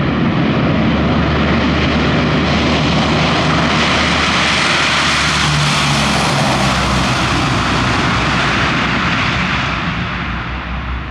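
Warbird aircraft's engine as it makes a loud pass. The noise swells to its fullest about halfway through and fades over the last second or two.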